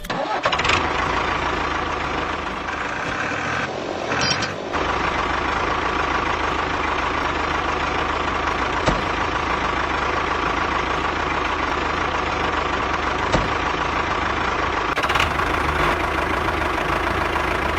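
A motor running steadily, with a held whine. It dips briefly about four seconds in, then carries on unchanged.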